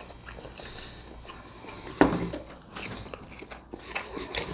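A person chewing and biting food close to the microphone, with wet mouth clicks and a sharper bite about two seconds in.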